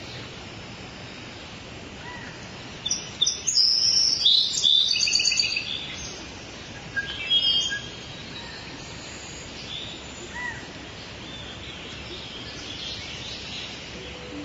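Birds chirping and calling over a steady outdoor hiss. A dense run of quick high chirps comes about three to five seconds in, with a shorter burst near seven seconds and scattered single calls later.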